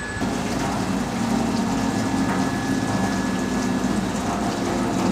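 Screw pump running steadily and pumping liquid, a constant low hum under a rushing wash of noise. It comes in abruptly just after the start.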